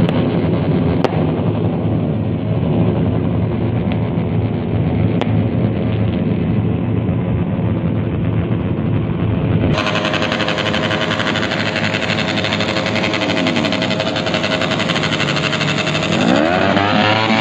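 Motorcycles with open, unmuffled exhausts running loudly together, engines held at high revs. Near the end one engine's pitch falls, then climbs sharply as it is revved again.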